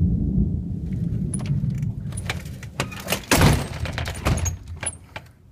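Thunder rumbling low and fading near the end, with clicks and rattling close by and a louder clatter about three and a half seconds in.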